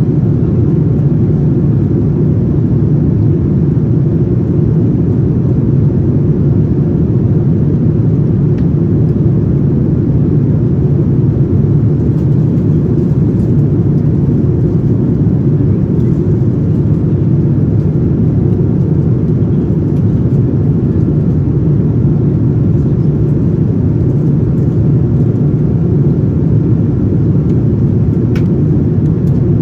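Steady cabin noise inside a Boeing 787-9 airliner: a constant low rumble of engines and airflow, with a few faint clicks.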